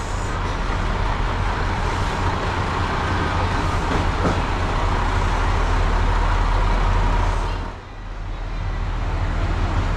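KiHa 185 series diesel railcar standing at the platform with its engines idling: a steady low hum under a broad mechanical hiss. The sound dips briefly about eight seconds in, then carries on.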